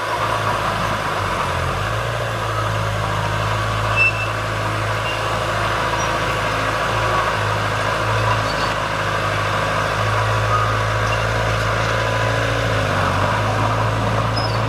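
Heavy diesel engine of earthmoving machinery running steadily, its low hum shifting slightly in pitch now and then.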